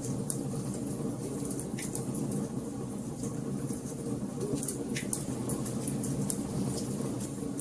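Wood fire crackling in a fireplace: a steady low rush of burning logs under a stream of small snaps and clicks, with a couple of louder pops about two and five seconds in.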